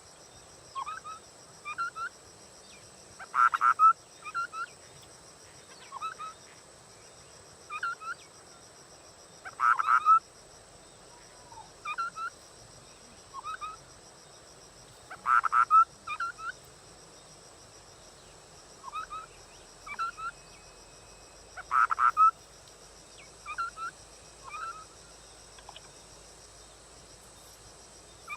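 Scimitar babbler (họa mi đất) calling: short hooked whistled notes, often in pairs, with a louder, quicker call about every six seconds, over a steady high-pitched hum.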